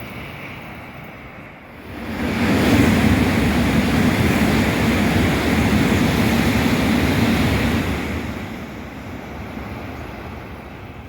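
A Sanyo Shinkansen bullet train passing at high speed. Its rushing noise builds quickly about two seconds in, stays loud for about six seconds, then fades away.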